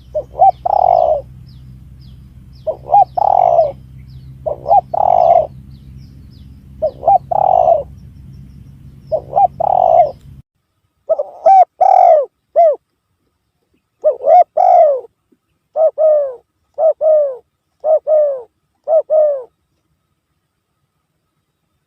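Spotted dove (tekukur) cooing, played as a hunting lure call: phrases of two or three coos about every two seconds over a low hum. About halfway in the hum stops and a cleaner recording follows, ending in a run of four single coos about a second apart.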